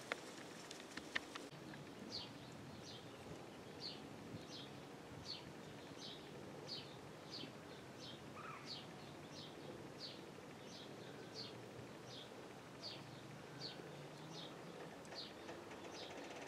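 A bird calling: a short, high, falling note repeated at an even pace, about three times every two seconds, faint over a quiet outdoor background. A few sharp clicks come in the first second or so.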